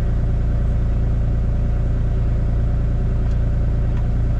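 Kubota KX040 mini excavator's diesel engine running steadily, a deep, even drone that holds its pitch throughout.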